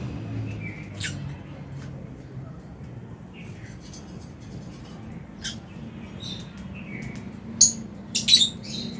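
Lovebirds chirping: scattered short, high calls, with a quick run of louder squawky chirps near the end, over a steady low background hum.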